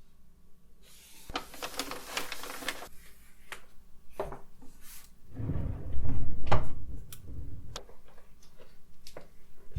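A drawer being opened and its contents rummaged through: rustling, small clicks and knocks, with a louder stretch of heavy sliding and handling about halfway through.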